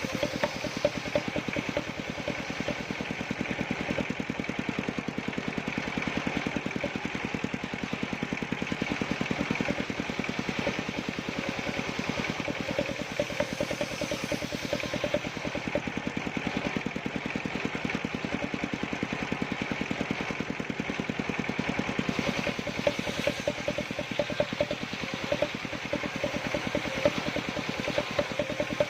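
Small combustion engine running steadily with a fast, even firing rhythm.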